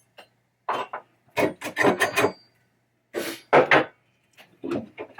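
Screwdriver tip and small screws scraping and rubbing against the metal trap door mechanism, in several short rasping bursts while a screw is worked into its hole. A faint steady low hum sits underneath.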